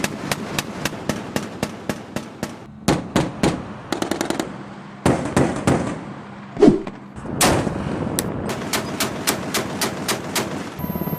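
Gunfire: quick runs of sharp shots, several a second, with louder single reports between them.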